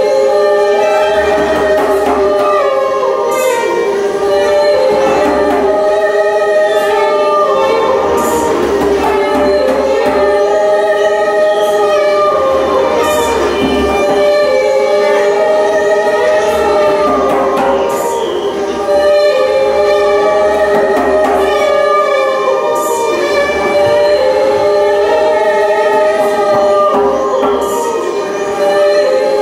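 Music with wordless singing, several voice lines layered and gliding over a steady held drone note.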